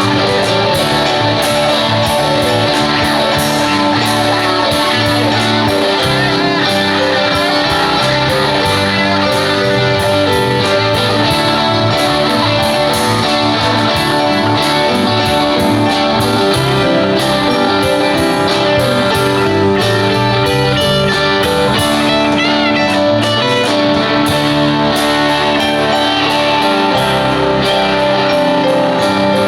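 A live rock band plays an instrumental passage with no vocals: electric guitar leads over strummed guitar, with a steady beat of cymbal strikes.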